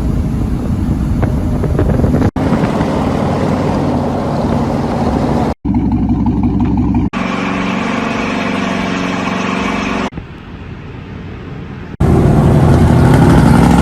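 Straight-piped pickup truck exhausts in a quick run of short clips that cut off abruptly every two or three seconds. The clip about ten seconds in is quieter, and the last one, starting about twelve seconds in, is the loudest.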